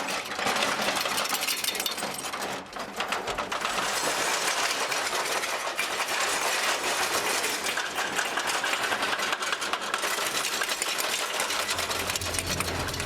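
Foley performance of a roller coaster going out of control: a rapid, continuous clattering and rattling, like cars rattling on a track. A low steady hum comes in near the end.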